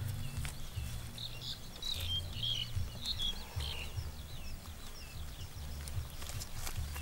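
Small birds chirping in quick, short calls, busiest from about one to five seconds in, over a low, uneven rumble.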